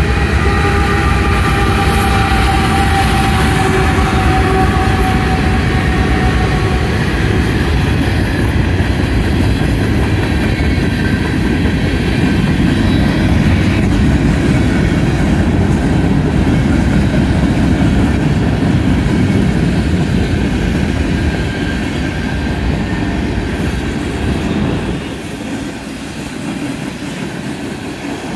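Norfolk Southern freight train rolling past close by: a steady rumble of freight cars' wheels on the rails. A thin high whine slowly falls in pitch over the first few seconds, and the rumble eases a little near the end.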